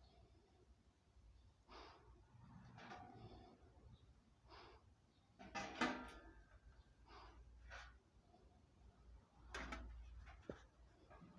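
Faint, scattered knocks and clatters of objects being handled, one every second or two, the loudest a little past halfway, over a low background rumble.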